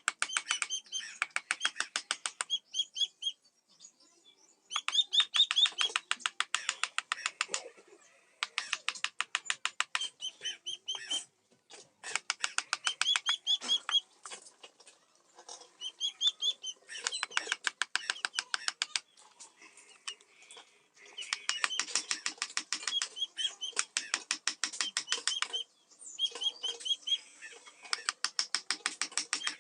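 Carving chisel being struck in quick runs of light hammer taps, about ten a second, some taps ringing briefly, with short pauses between runs as the teak panel is cut.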